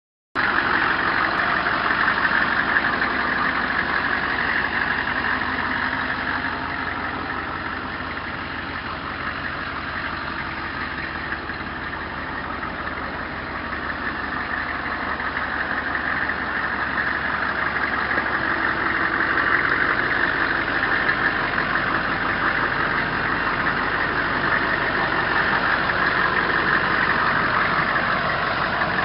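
1994 Hummer H1's 6.5-litre turbo-diesel V8 idling steadily. It grows quieter for a while partway through, then louder again.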